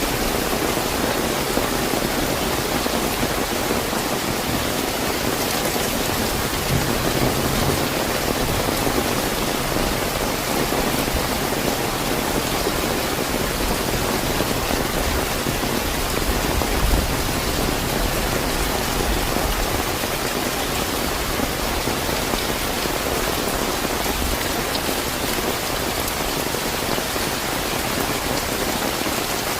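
Steady, fairly heavy rain falling on surfaces, a dense even hiss of drops, with a couple of brief low swells about seven and seventeen seconds in.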